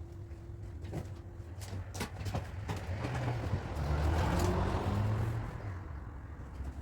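A motor vehicle passing by: its engine and road noise swell to a peak about four seconds in and then fade, over a steady low hum and scattered light clicks.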